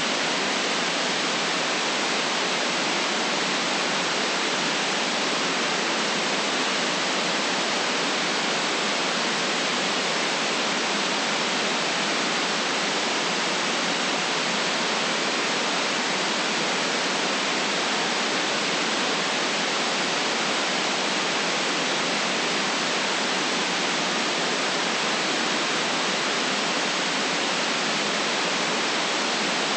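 Steady, unchanging white noise hiss, even in level, with no deep rumble and no variation.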